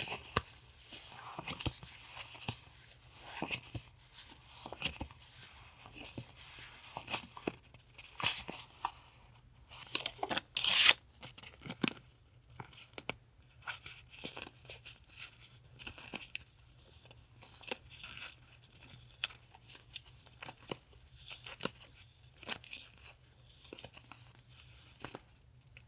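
Paper and plastic stationery packaging being handled: irregular rustling, crinkling and tearing, with a louder, longer tearing rasp about ten seconds in.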